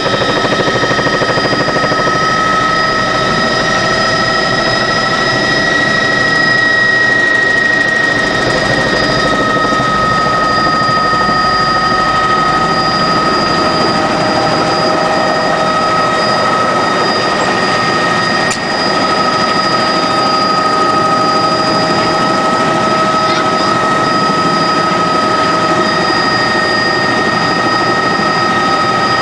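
Helicopter in flight, heard from on board: a loud, steady engine whine over dense rotor and airflow noise.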